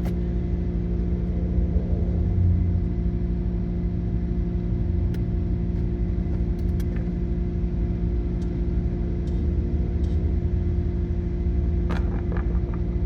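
Car engine running at a steady speed, a constant drone over a low rumble, with a few faint clicks near the end.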